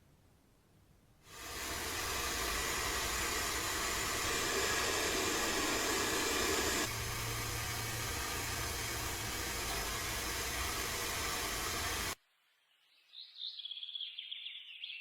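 A loud, steady hiss of spraying air that starts about a second in and runs for about eleven seconds. About halfway through, a low hum joins it. The hiss cuts off abruptly, and a shorter, higher wavering sound follows near the end.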